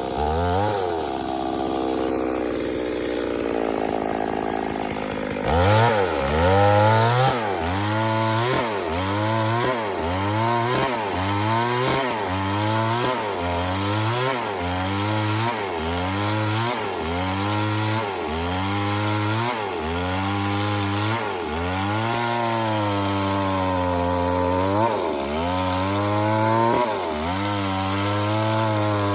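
Two-stroke chainsaw cutting wood. For about the first five seconds the engine holds a steadier, lower pitch. It then rises and falls in pitch about once a second, over and over, as the chain is worked through the wood.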